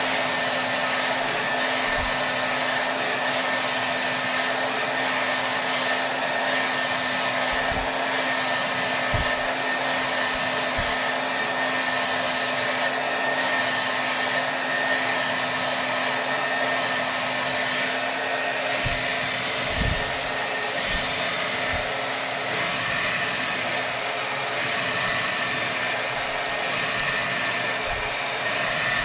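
Hair dryer running steadily at full power: a continuous rush of air with a faint steady hum, broken now and then by brief soft low bumps.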